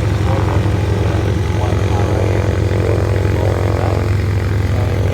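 P-40 Kittyhawk fighter's piston engine and propeller running in flight, a loud, steady drone.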